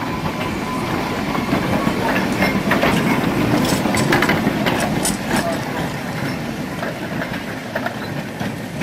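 Vintage electric tram running along its track: a steady wheel rumble with a run of sharp clicks and knocks from the wheels over rail joints from about two to five seconds in.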